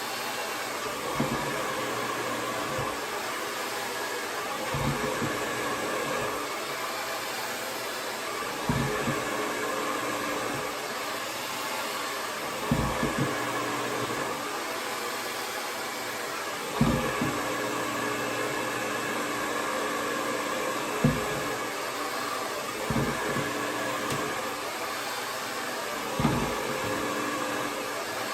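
Conair Testarossa 1875-watt AC-motor hair dryer running steadily, a constant rush of air over a low motor hum. Brief low thumps come every few seconds.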